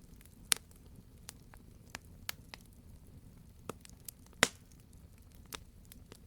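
Wood fire crackling in a fireplace: scattered sharp pops and snaps over a low steady rumble, with two louder pops, one about half a second in and one a little past four seconds in.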